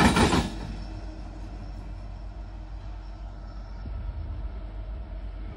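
Freight train wheels clattering over a railroad diamond crossing, cutting off about half a second in as the last car clears. A low, steady rumble from the departing train follows.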